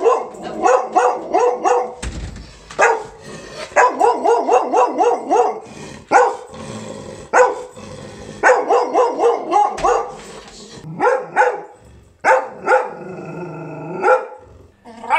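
Golden retriever barking in quick volleys of several sharp barks with short pauses between, ending with a longer drawn-out bark near the end.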